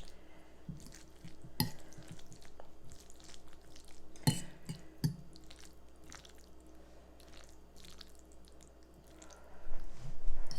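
Close-miked eating: wet chewing and mouth smacks, with scattered small clicks and a few sharper taps, the loudest about four seconds in, and louder chewing near the end.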